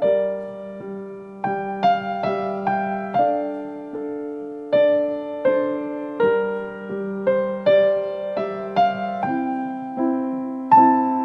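Slow, gentle piano music: single notes struck one after another, each ringing out and fading, over held lower notes.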